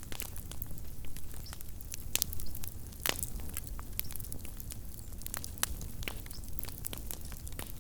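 Small wood campfire crackling: irregular sharp pops and snaps, a couple louder ones in the first half, over a low steady rumble of burning.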